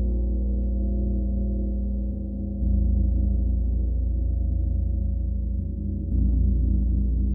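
A gong sounding with a deep, sustained wash of many low tones. It swells louder twice, about two and a half seconds in and again about six seconds in.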